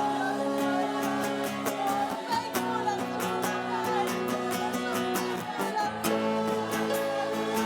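Live worship band music led by strummed acoustic guitar, with sustained chords over a steady beat. The chords change about two and a half seconds in and again about six seconds in.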